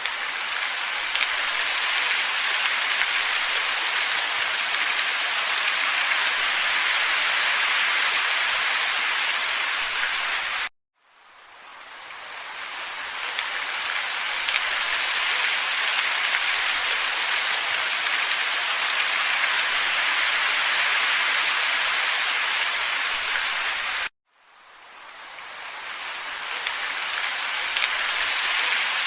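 Steady, even rushing noise of a looped nature ambience. It cuts out abruptly about eleven and twenty-four seconds in, and each time fades back up over a few seconds.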